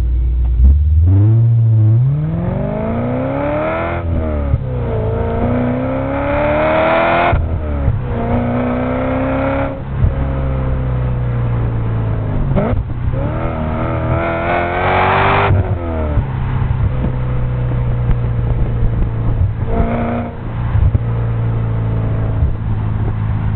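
E39 BMW M5's 4.9-litre V8 with Dinan headers and a Tubi exhaust, pulling hard through the gears: the engine note climbs steeply, drops sharply at each upshift, about four times in the first ten seconds, then climbs once more. After that it settles to a steady cruise, with one short rev blip near the end.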